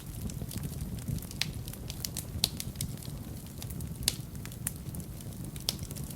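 Fire burning in a fireplace, crackling with irregular sharp pops over a low steady rumble. The loudest pops come at about one and a half, two and a half, four and six seconds in.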